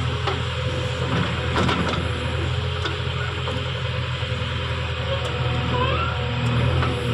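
Heavy diesel engine running steadily at a constant speed, with a few faint clicks and knocks.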